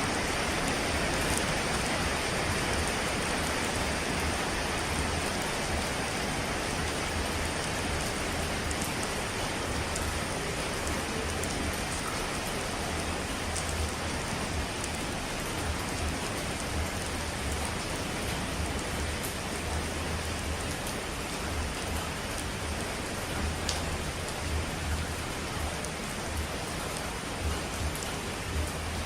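Steady rushing noise of falling water, like heavy rain, with a few sharp drop-like ticks and a wavering low rumble.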